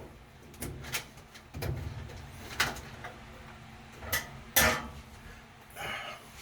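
A series of separate clicks and knocks from tools and parts being handled at a washing machine's opened back panel, the loudest a bit past halfway.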